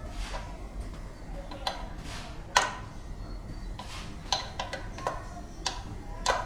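Irregular sharp metallic clicks and light knocks, about a dozen, some with a short ring. They sound like hand tools and metal parts being handled and tapped during work on a compressor. The loudest knock comes about two and a half seconds in, over a low steady hum.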